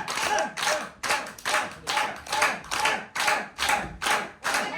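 Audience clapping in a steady rhythm, about two to three claps a second.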